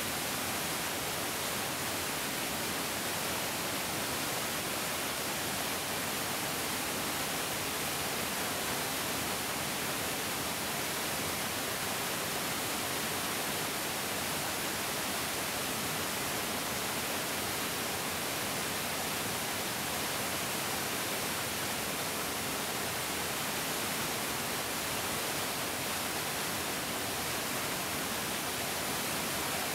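A larger mountain stream flowing: a steady, unbroken rush of water, bright and hissy.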